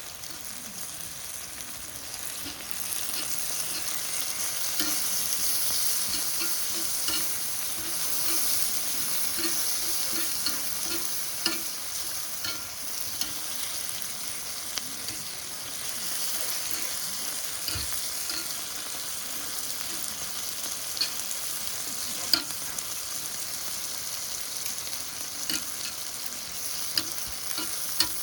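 Chicken neck meat and garlic sizzling in a frying pan as they are stir-fried, with scattered light taps of the utensil against the pan.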